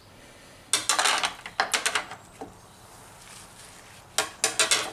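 Clattering and rattling of hard objects being handled, in two bunches of quick knocks: one starting about a second in and lasting about a second, another near the end.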